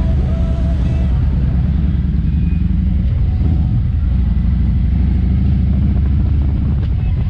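Motorcycle engine running steadily at road speed, a constant low rumble.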